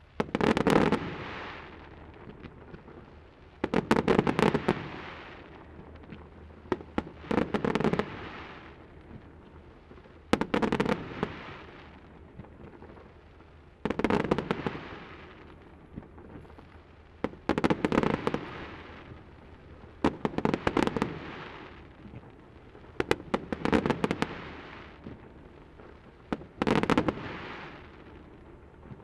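Fireworks display: aerial shells bursting in volleys of sharp crackling bangs, about one volley every three seconds, each trailing off into a fading rumble.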